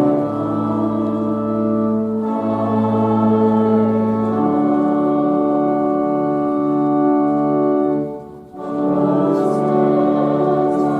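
Organ playing slow, sustained chords, as for a hymn or processional; the sound breaks off briefly about eight and a half seconds in, then the chords resume.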